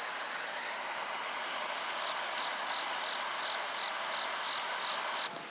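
Crickets chirping about three times a second over a steady rushing background hiss; the hiss drops away abruptly near the end.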